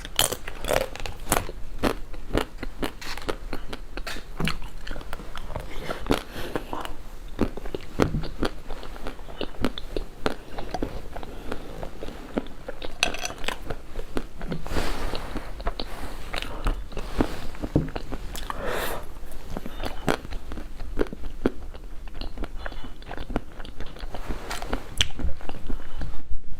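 Biting and chewing a crispy-shelled mousse dessert: repeated sharp crunches and crackles of the shell, with chewing between them.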